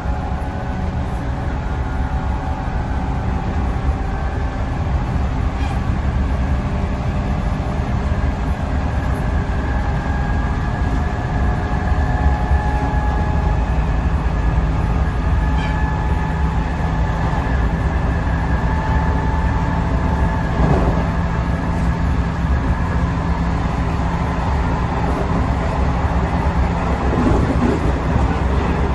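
Onboard running sound of a JR Central 311 series electric train at speed: a steady rumble of wheels on rail with a constant high whine from the traction motors, growing a little louder as it goes.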